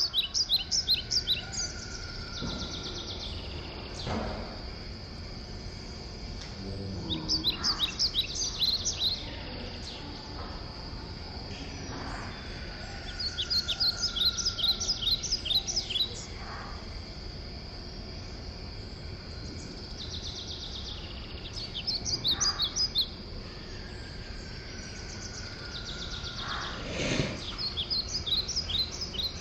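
A small bird singing in repeated bouts of rapid high chirps, each lasting a second or two and coming about every six seconds, over a steady high-pitched insect drone.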